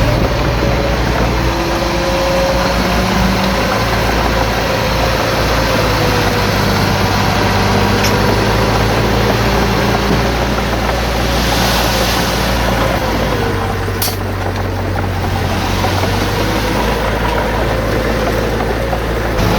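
Diesel engine of heavy earthmoving machinery running steadily: a low rumble with a faint wavering whine, and a single sharp clank about fourteen seconds in.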